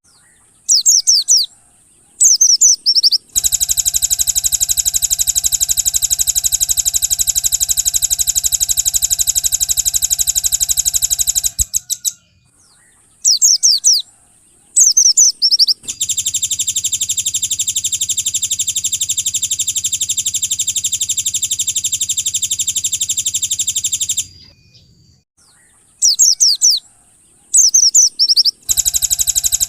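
Looped song-bird training recording for white-eyes (pleci). Short bursts of high, fast gliding chirps alternate with long, even, very rapid trills of about eight seconds that stop abruptly. The cycle runs twice.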